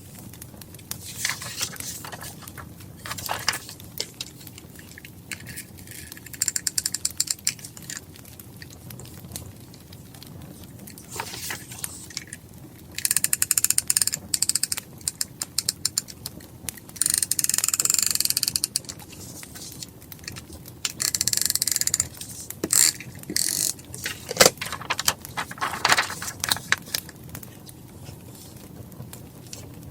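Diary-decorating handling sounds of paper and stationery, with a few stretches of rapid clicking around the middle and scattered single clicks, over a crackling wood fire.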